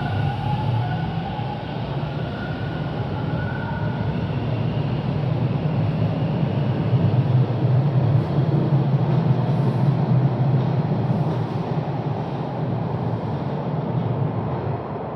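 Light rail train running along the track with a steady low rumble. A faint whine sounds over it for the first few seconds, and the rumble grows louder through the middle before easing off.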